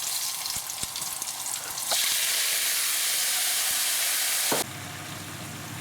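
Hot oil crackling in a pan of frying green chillies, then about two seconds in a sudden loud sizzle as soy-marinated chicken goes into the oil. The sizzle stops abruptly near the end, leaving a quieter, lower frying sound.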